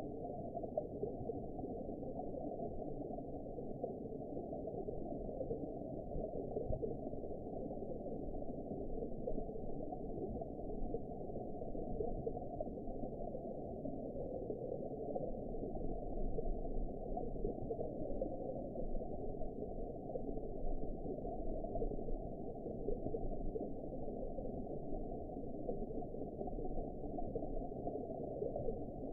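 Steady, muffled underwater ambience: a continuous low wash of water noise with no high tones and no distinct events.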